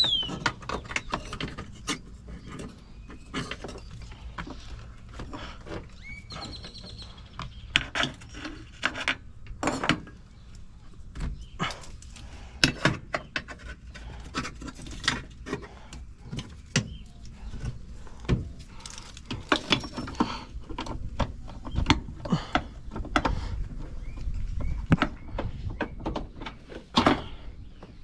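Hand tools and metal truck parts clanking and clicking as someone works on the truck: many sharp, irregular knocks and clicks scattered throughout.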